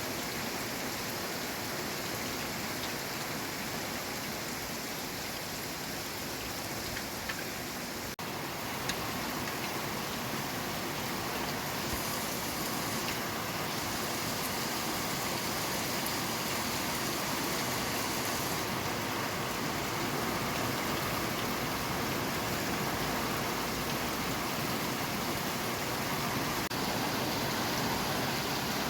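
Steady rain falling, an even hiss with faint scattered drop ticks, growing slightly louder over the second half.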